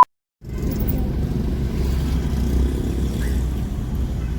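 Steady low rumble of a car's engine and road noise heard inside the cabin while driving. It starts about half a second in, after a brief silence.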